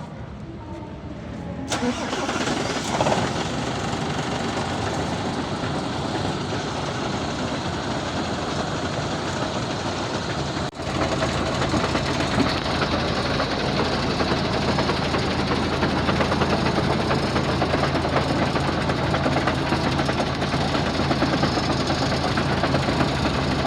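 Heavy diesel truck engine running steadily. About eleven seconds in the sound breaks off for a moment, then settles into an even, low idle hum.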